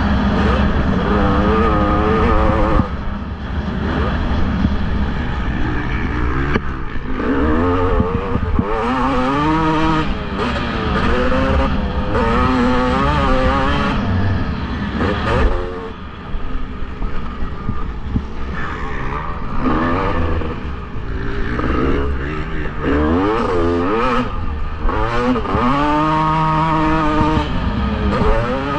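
Motocross bikes racing, their engines revving up and dropping back again and again as riders work the throttle through the track, over a steady low rumble.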